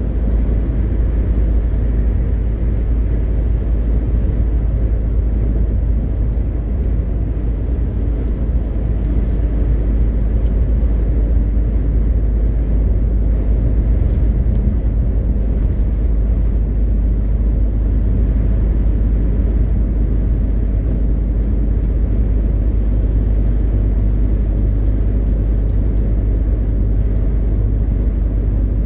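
MAN TGX 520 truck's straight-six diesel and tyres running at a steady cruise: a deep, unbroken rumble. A faint high whistle rises in about twenty seconds in and then holds.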